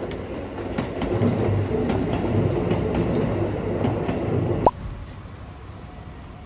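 Hakone Tozan Railway train passing close by, its wheels rumbling and clicking over the track. It ends with a brief sharp high squeak about four and a half seconds in, after which the sound drops away to a quieter background.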